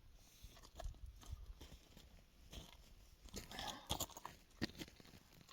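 Faint handling sounds: scattered light clicks and short rustles, a little busier after about three seconds.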